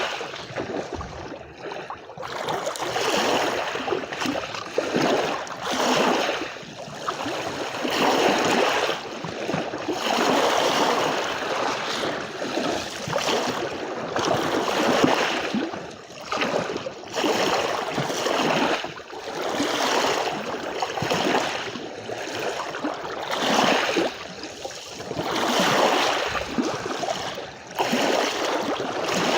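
Small sea waves washing onto a beach, the surf swelling and fading every couple of seconds.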